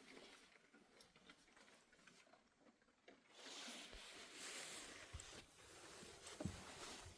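Near silence: faint scattered clicks, then from about three seconds in a soft hiss with a few dull knocks.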